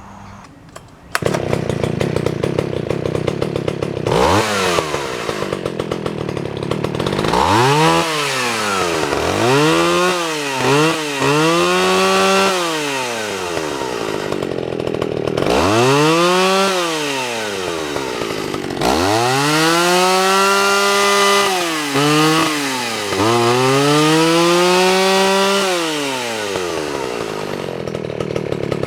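Vintage John Deere 55V two-stroke chainsaw running: it comes in about a second in and idles, then is revved up and down again and again. Some revs are short blips; others are held for a few seconds before falling back to idle.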